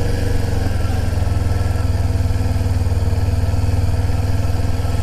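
Sport bike engine running steadily at low speed, an even low drone with no revving.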